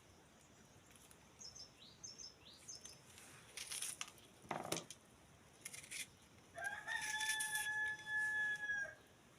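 A rooster crows once, a single long, level call of about two seconds in the second half. Before it there are a few short, high bird chirps and some clicks and rustles.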